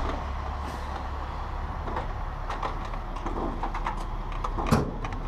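Tri-axle dump truck's diesel engine idling with a steady low hum, under scattered light clicks and knocks.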